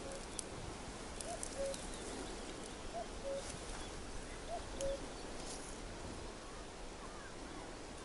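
A bird calling a two-note call, a short higher note then a lower one, repeated about every one and a half seconds and stopping about five seconds in, with a few faint clicks.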